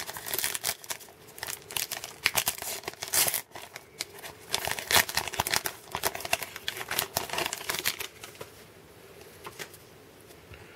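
Trading card pack wrapper being torn open and crinkled by hand, a dense crackling for about eight seconds that dies down near the end.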